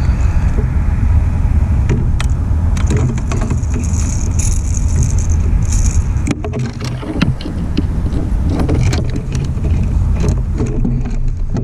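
Handling noise while a channel catfish is reeled in and brought aboard a kayak: a steady low rumble with many scattered clicks and knocks, thickest past the middle.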